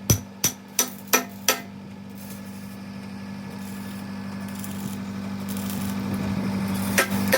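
A hammer strikes steel about five times, roughly three a second. Then a MIG welding arc runs with a steady hiss that slowly grows louder, and the hammer strikes start again near the end. A steady low hum runs under it all.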